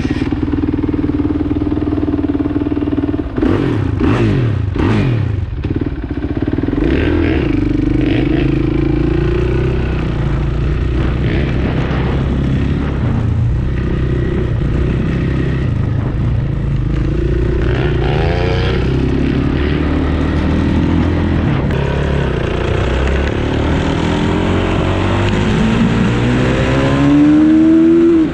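Suzuki RM-Z450 dirt bike's single-cylinder four-stroke engine running while being ridden, its revs rising and falling again and again, with a few knocks early on and a climbing rev near the end as it accelerates.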